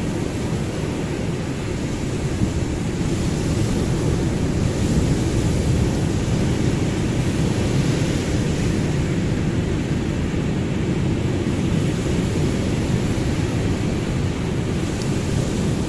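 Ocean surf: a steady, low wash of waves that never breaks into separate crashes.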